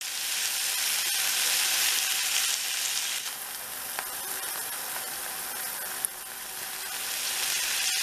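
Pork pieces with mustard leaves frying in hot oil in a pan: a steady sizzling hiss, louder in the first few seconds, with a couple of sharp spatter pops.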